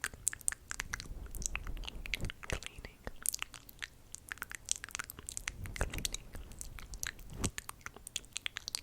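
Close-miked ASMR mouth sounds: quick, irregular clicks and pops of the mouth, several a second.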